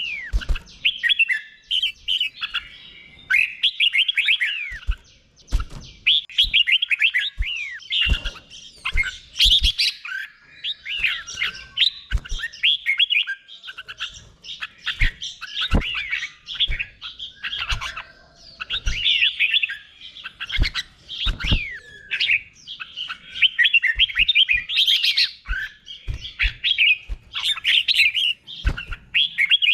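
Red-whiskered bulbul singing its doubled ('berl') song: quick, bright warbled phrases of short rising and falling notes, one after another, with scattered sharp clicks among them.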